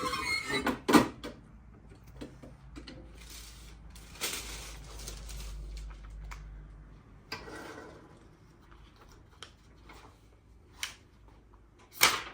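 Heat press handling: clunks and knocks as the press is worked, two spells of hissing in the middle, and a loud clunk near the end.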